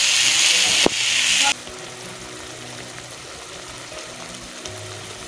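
Potato and eggplant pieces sizzling loudly as they fry in oil in a steel pot, with one sharp click about a second in. The sizzle cuts off suddenly about a second and a half in, leaving a much quieter background with a faint low hum.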